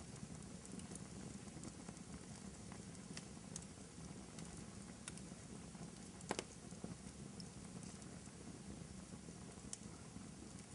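Fireplace crackling softly: a steady low rumble of burning wood with scattered small pops and one louder pop about six seconds in.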